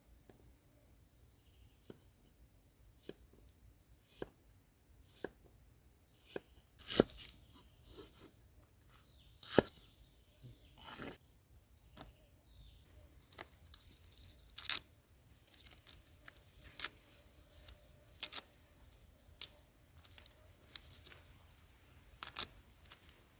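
Food being cut or torn by hand during preparation: a series of separate sharp snips and snaps at irregular intervals, roughly one every second or two.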